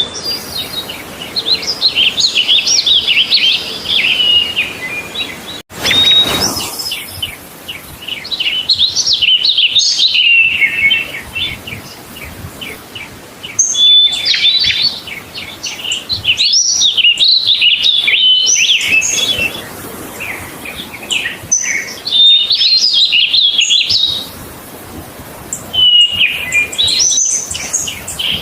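A songbird singing repeated phrases of quick, high warbling and chirping notes, each phrase a few seconds long with short pauses between.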